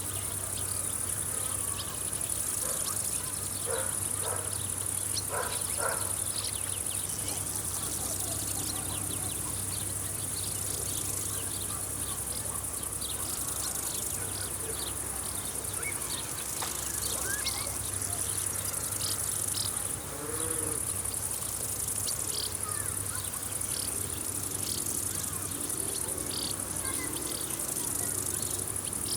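A steady, high-pitched chorus of field insects chirring, swelling and easing every few seconds, with scattered short chirps over a low steady hum.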